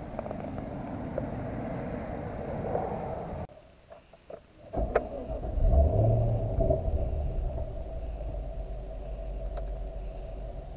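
A steady running sound, then a short quiet gap with a few faint clicks. About five seconds in, the Chevrolet SS's 6.2-litre LS3 V8 fires up with a loud flare, then settles into a steady idle rumble.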